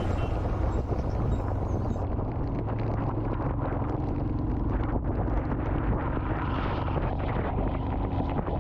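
Royal Enfield Himalayan's single-cylinder engine running steadily while riding through heavy rain, with rain and wind noise on the microphone.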